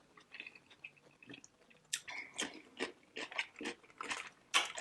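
Close-miked chewing of a hot and spicy pickle: faint crunching and smacking clicks, sparse at first and then about two or three a second from about two seconds in.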